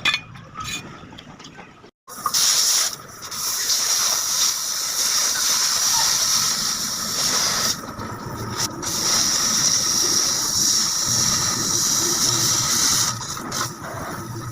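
Oxy-fuel gas cutting torch hissing steadily as it cuts steel, with two short breaks in the hiss partway through.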